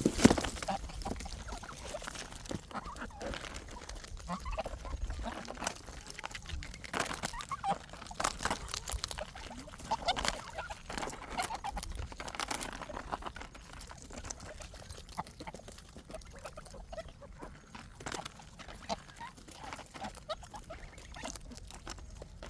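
Farmyard poultry clucking and calling, among scattered knocks and clatter from work, with a sharp knock right at the start.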